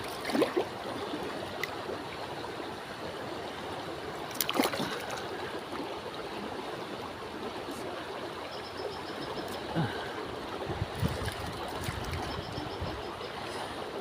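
Steady rush of flowing stream water, with a couple of brief knocks and, later, short runs of faint high ticking.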